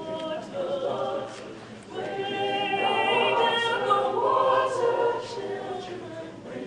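A group of voices singing together like a choir, with sustained notes that grow louder about two seconds in.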